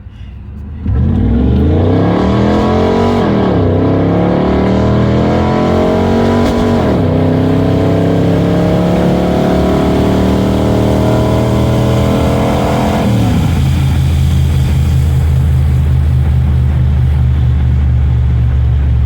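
Pontiac Trans Am's LT1 V8 accelerating hard onto the freeway: the engine note climbs, drops at two upshifts a few seconds apart, and climbs again through a longer pull. After about thirteen seconds it settles into a steady cruise. The car is still pulling well on almost year-old gasoline.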